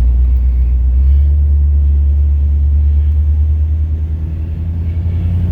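1967 Cadillac's 429 V8 running with a steady low rumble on its first run after major engine work, sounding pretty good so far.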